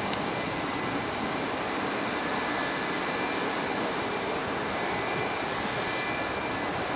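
Jet airliner's engines, a steady rushing noise with a faint high-pitched whine running through it.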